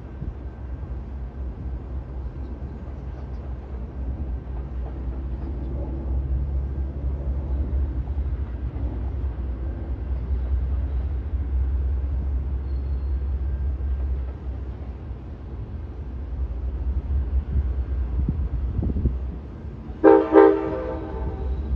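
Amtrak passenger train approaching: a steady low rumble of diesel locomotives and rolling cars, growing louder in the middle, then a short, loud blast of the locomotive's horn near the end.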